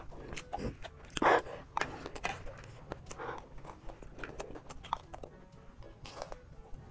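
Chewing and crunching of chatpatey, a spicy puffed-rice snack, in short irregular crunches and clicks, with a louder crunch about a second in.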